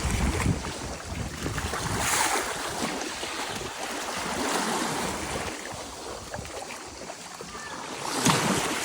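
Sea waves washing with wind buffeting the microphone, with louder surges of water about two seconds in and near the end.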